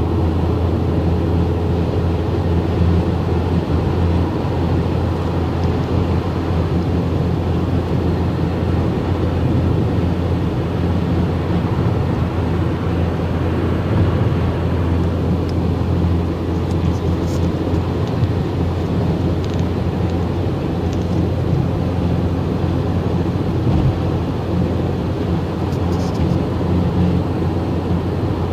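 Car driving at steady speed: a constant low engine hum under even tyre and road noise, with a couple of faint ticks in the second half.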